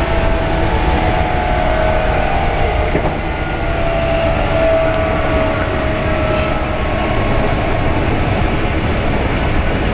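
Meitetsu 5300 series electric train running, heard from on board: a steady rumble of wheels and running gear with a whine that drifts slowly down in pitch through the middle. Two brief ticks come near the middle.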